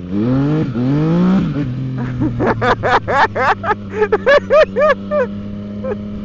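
Motorcycle engine at full throttle on a wet road, a test of whether the rear tyre will slip. The pitch climbs, drops briefly with an upshift, then climbs again and settles to a steady run. From about two seconds in, a stretch of rapid laughter rides over the engine.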